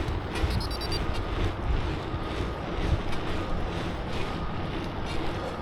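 Wind buffeting the microphone while cycling, over a steady low rumble, with a brief run of faint high ticks about half a second in.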